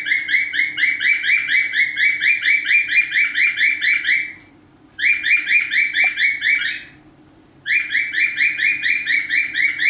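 Nestling pet bird calling in rapid, even chirps, about six a second, in three runs broken by two short pauses.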